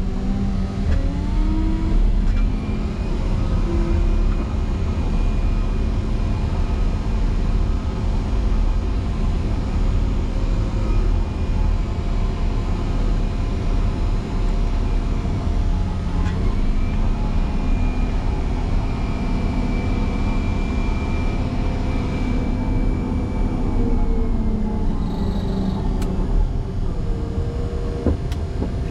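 Motor grader's diesel engine working hard while pushing snow through a drift, revving up, easing off and revving up again as the load changes, with a faint high whine rising and falling with the revs.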